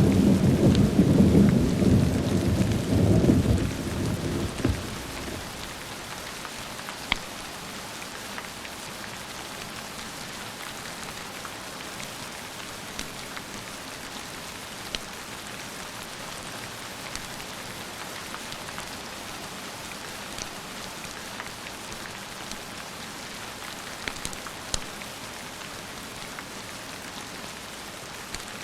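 Thunder rumbling and dying away over the first few seconds, then steady rain with scattered sharp ticks.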